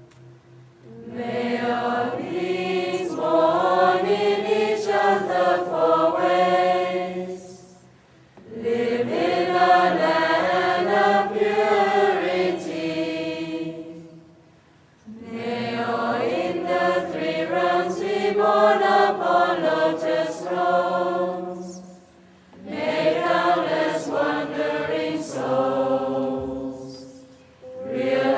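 Monastic group chanting, many voices together in slow, long-held phrases, with short breath pauses between phrases; four full phrases, and a fifth beginning near the end. A chant offering gratitude to ancestral teachers.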